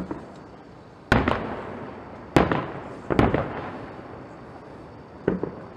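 Fireworks shells bursting in a string of loud bangs, about six to seven over a few seconds, several in quick pairs, each echoing away.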